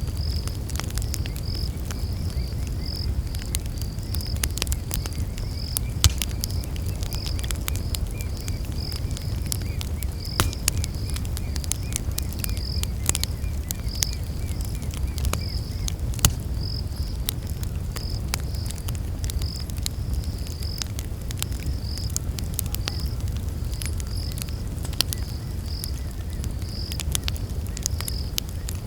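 Campfire crackling with frequent sharp pops over a low steady rumble, while night insects chirp in a steady pulsing high trill; a second, fainter insect trill joins for about ten seconds in the first half.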